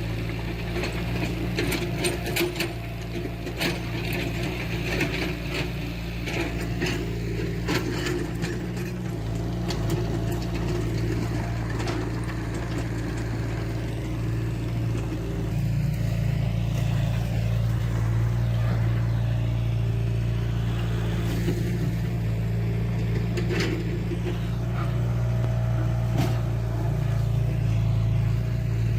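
Diesel engine of a heavy earthmoving machine running steadily, with a run of sharp clanks and cracks over the first several seconds and a few more near the end. The engine grows louder from about halfway through.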